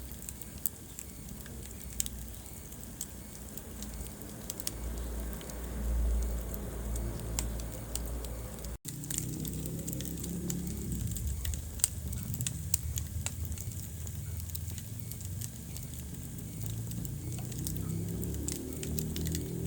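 Wood fire crackling in a fireplace: frequent sharp pops and snaps over the low, uneven rumble of the flames.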